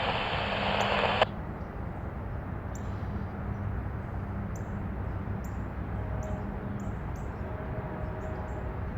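Small birds chirping in short high calls repeated every second or so, over a steady low rumble. In the first second a brief hissing noise cuts off sharply.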